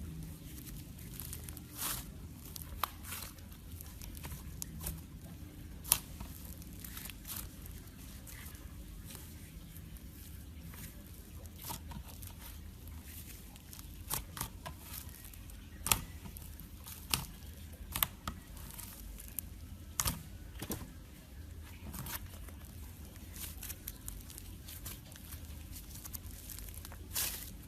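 Slime being squeezed and stretched by hand, with irregular sharp pops and clicks over a soft crinkling.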